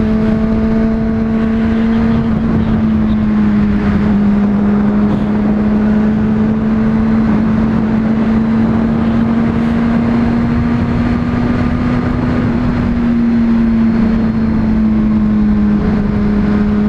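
Honda CBR600RR's inline-four engine running steadily at high revs while riding, with wind rush on the microphone. Its pitch creeps up slightly through the middle and eases a little near the end.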